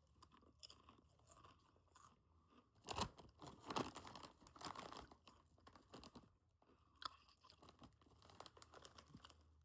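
A person chewing and crunching a rolled tortilla chip (Takis Blue Heat), faint irregular crunches that are densest about three to five seconds in.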